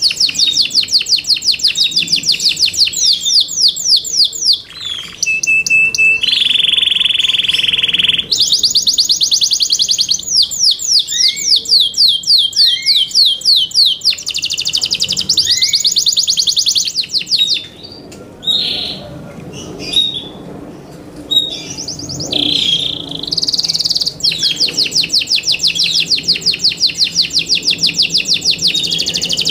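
Yorkshire canary singing: long, fast trills of rapidly repeated falling notes, broken about a quarter of the way in by a single held steady note, with a few short pauses filled by brief calls before the trills resume.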